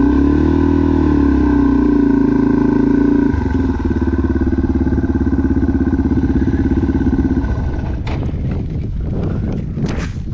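Dirt bike engine, just started, revved up and back down once early on, then running steadily before stopping about seven seconds in. A few sharp clicks and knocks follow near the end.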